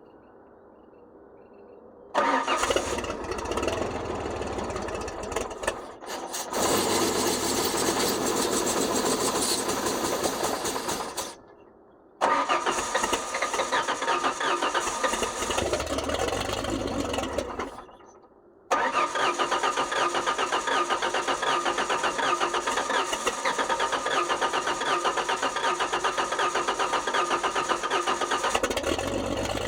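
Ford 300 straight-six (4.9 L) being cranked on a 28°F cold start: three long bursts of starter cranking, each cut off abruptly, without the engine settling into a steady run. The title blames a fuel pump that is not working correctly.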